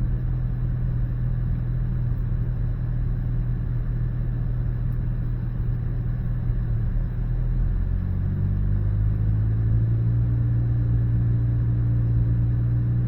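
The 1.6-litre turbocharged four-cylinder engine of a 2019 Hyundai Elantra GT running under light load during a misfire check. It runs steadily, then its note changes about eight seconds in as a second, higher hum joins it.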